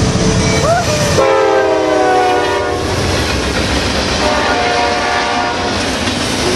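Norfolk Southern freight train passing close by: the diesel locomotive's multi-note horn sounds twice, a long blast about a second in whose pitch sags slightly and a shorter one around four seconds in. Beneath it the freight cars rumble and clatter steadily over the rails.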